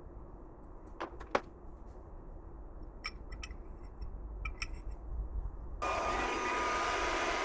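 Two sharp knocks and a few light clicks, then a machine starts running abruptly near the end with a loud, steady noise.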